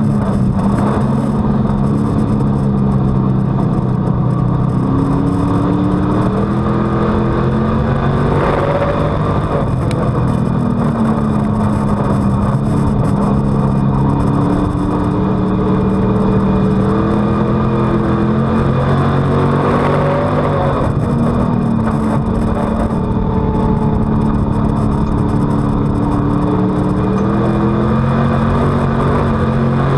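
On-board sound of a WISSOTA Street Stock's V8 race engine at racing speed. The engine pitch climbs and falls back several times as the car accelerates and lifts off.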